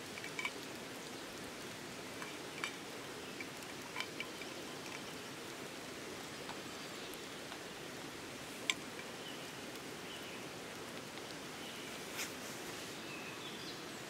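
Rain falling in a steady patter, with a few scattered sharp drip ticks; the sharpest comes about nine seconds in.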